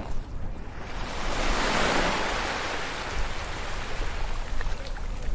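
Ocean wave breaking on a beach: the surf's wash builds about a second in, is loudest around two seconds, then slowly fades as the water draws back.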